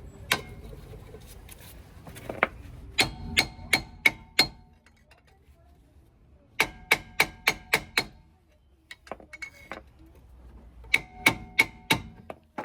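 Hammer tapping a brake drum to work it off the hub: quick runs of sharp metal strikes, each ringing briefly, in several bursts of five to seven blows.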